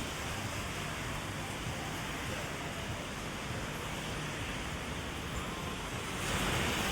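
Heavy rain, a steady hiss of rain on an umbrella and the wet street, getting louder about six seconds in.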